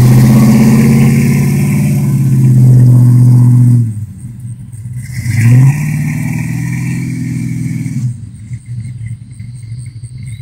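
Early-1970s Ford Mustang V8 pulling away and accelerating, loud at first, with a short rising rev about five seconds in, then fading as the car drives off into the distance.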